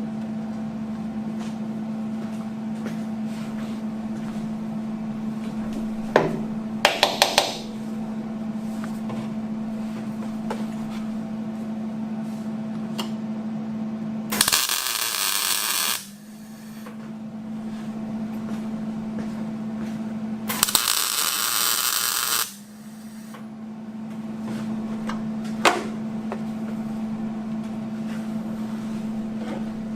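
Welding on a car's sheet-metal firewall: two welding bursts of about one and a half to two seconds each, the first about halfway through and the second some six seconds later, with a few very short bursts earlier and one near the end. A steady hum runs underneath.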